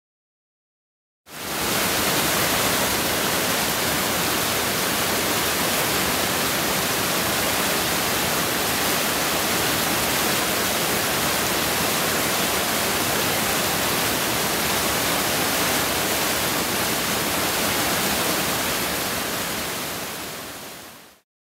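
Waterfall pouring, a steady rush of falling water that starts abruptly about a second in and fades out near the end.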